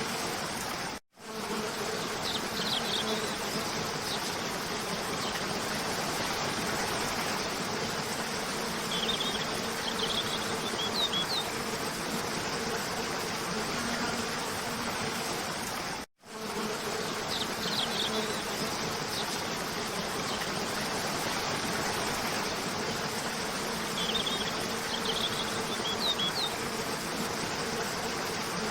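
Steady rush of a cascading waterfall under a low buzzing hum, with a few small clusters of short, high bird chirps. The sound cuts out completely for an instant about a second in and again about halfway, then the same sequence repeats: a looped track.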